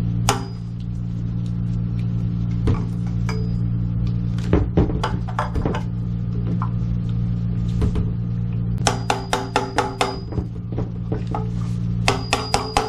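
Plumbing work on a water heater: scattered knocks and handling over a steady low hum, then quick runs of ringing metallic taps, about five a second, starting about nine seconds in and again near the end.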